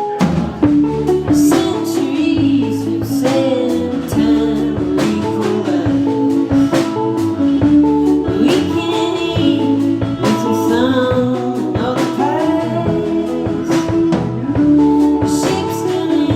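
Live band playing loud amplified music: electric guitar, a drum kit keeping a steady beat, and a singer's voice.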